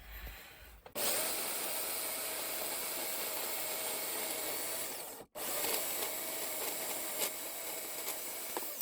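A power tool cutting off a steel workpiece with a steady, noisy run. The sound drops out for an instant about five seconds in, then carries on.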